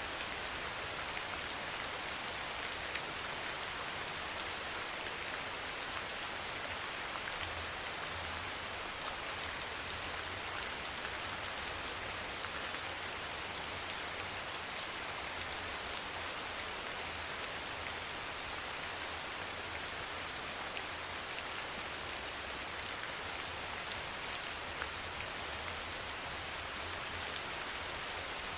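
Steady rain falling, with a continuous hiss and faint scattered drop ticks.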